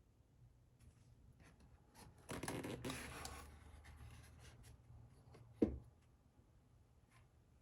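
Workbench handling noise: about a second of rustling and scraping, scattered small clicks, then a single sharp knock a few seconds in.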